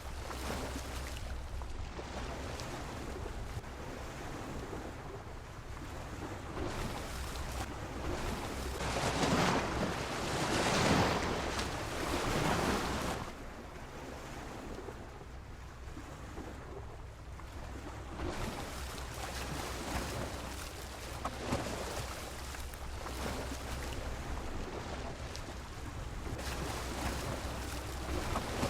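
Sea waves washing against a pier, the surf rising and falling, with one larger surge loudest about a third of the way in.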